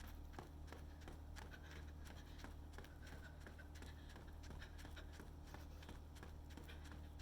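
Faint, regular footfalls of a person running, each step a short soft thud, over a steady low hum.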